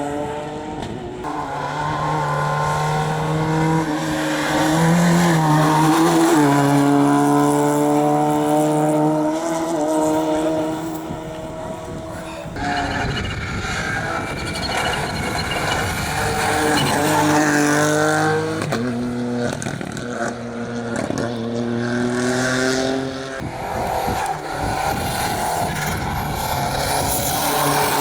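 Rally cars racing through a tarmac special stage, engines at high revs with the pitch stepping up and down through gear changes. The engine note changes abruptly about halfway through and again near the end, as one car gives way to another.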